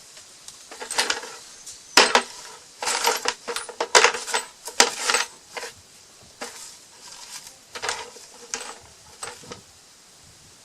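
Hollow plastic containers being handled and knocked against each other: a run of irregular clicks and knocks with a hollow ring, thinning out after about six seconds.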